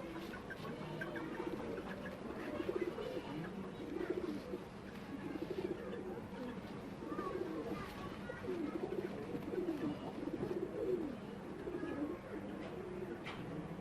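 Pigeons cooing over and over, low warbling calls coming about once a second, over a steady low hum.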